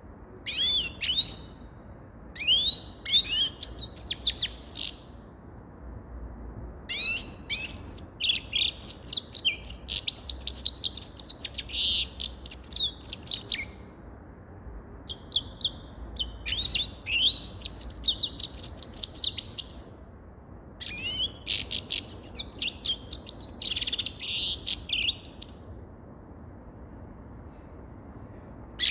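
Grey-headed goldfinch singing: bouts of fast, twittering song of quick gliding notes, broken by short pauses.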